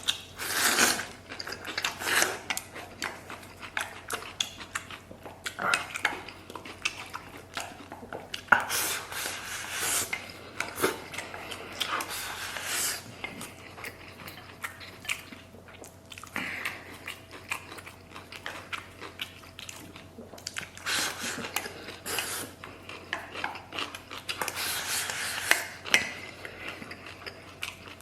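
Eating from a large bowl of spicy maocai: chopsticks clicking and clattering against the bowl at irregular intervals, with eating noises in between.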